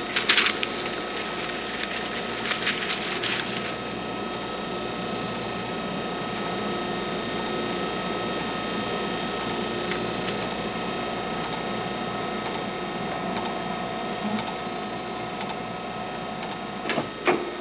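Steady electronic machinery hum made of several steady tones, with a faint regular tick about once a second. Clusters of clicks and knocks come near the start, again about three seconds in, and near the end.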